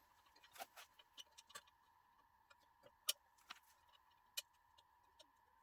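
Scattered light clicks and taps of small parts and tools being handled during disassembly of a model locomotive's traction-motor assembly, over a faint steady high-pitched hum. Two sharper clicks stand out, about three seconds in and just past four seconds.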